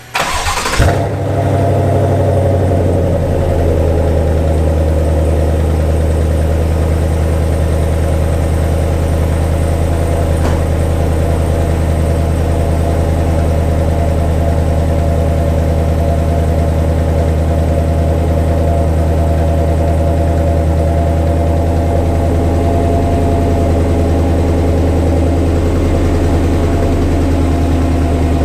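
2020 GMC Sierra AT4's 6.2L V8 through a custom true dual exhaust (Y-pipe removed, welded mufflers), starting with a short burst right at the beginning. It runs a few seconds at a raised idle, then settles to a steady, even idle.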